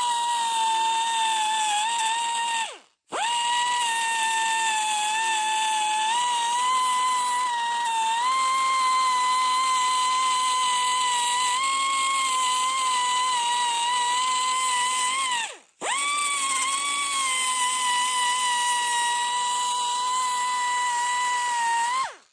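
Die grinder whining at high speed as it grinds down weld build-up on a shaft. The pitch wavers slightly as it loads on the metal. It stops briefly twice, about 3 seconds in and again around 16 seconds, then starts straight back up.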